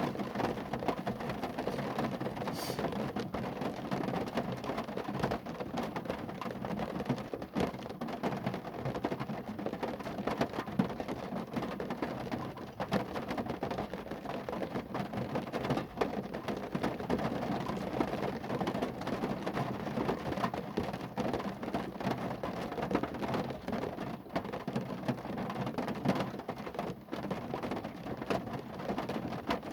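Steady rain falling on a car, many drops pattering densely on its body.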